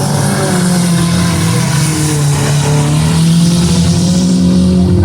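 Several autocross car engines running together during a heat race, their pitches overlapping and rising and falling as the cars accelerate and lift around a short dirt track.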